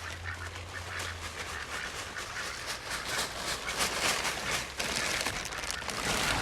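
Domestic ducks quacking over and over in short noisy calls, busiest in the second half.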